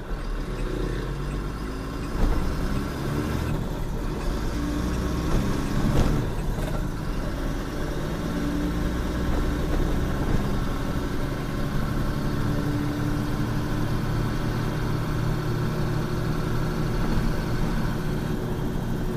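Truck engine running steadily on the road, with a knock about two seconds in and a sharp click about six seconds in.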